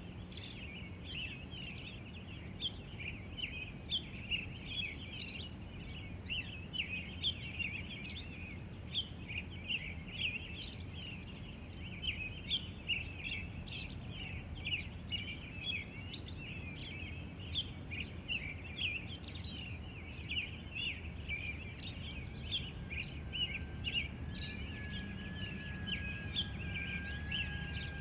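Morning bird chorus: many birds giving dense, overlapping short chirps, over a steady high-pitched insect-like hum and a low background rumble. Near the end a steady tone joins in.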